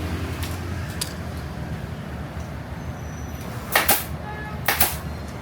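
Steady low rumble of road traffic, with two short, sharp hissing snaps about a second apart near the end.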